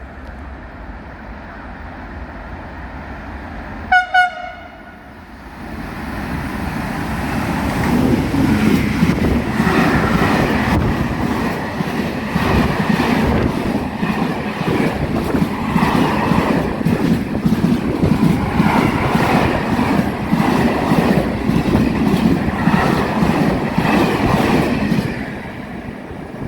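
A train sounds two short horn toots, then runs through the station. Its passing rolling stock makes a loud rumble with steady clattering of wheels over the rails, dying away near the end.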